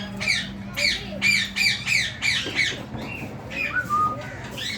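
Rose-ringed parakeets giving harsh, repeated screeching calls, about three a second, each sliding down in pitch. The calls thin out after about two and a half seconds, with a short whistle near the end.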